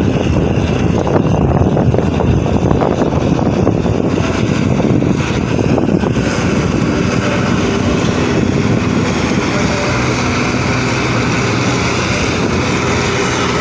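Farm tractor engine running hard under load while pulling the sled. It turns steadier after about six seconds.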